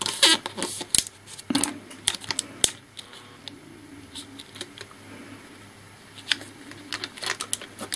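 Sharp clicks, taps and light rustling of hands handling the opened laptop's parts while pressing its sticky heat-shield sheet back down. The clicks come thickly in the first three seconds, fall quiet for a few seconds, and start again near the end.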